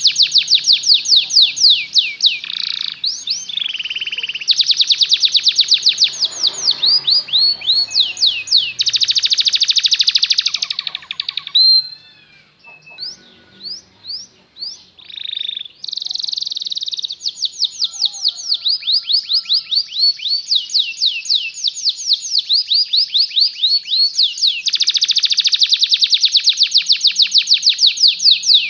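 Canary singing long, rapid trills of repeated high notes, each run held for a few seconds. About twelve seconds in, the song breaks for a few seconds into scattered short chirps and whistles, then the fast trills resume.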